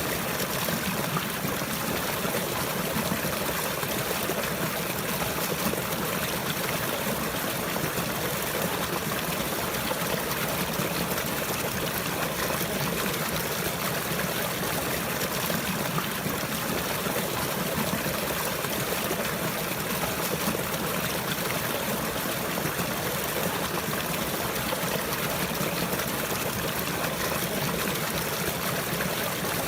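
Flowing water: a steady trickle of running water, even and unchanging, with no other sounds over it.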